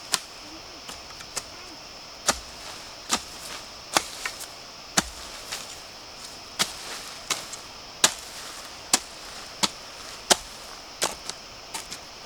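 Repeated sharp chopping strokes of a blade cutting bamboo, at an uneven pace of about one a second. A steady high-pitched insect drone runs underneath.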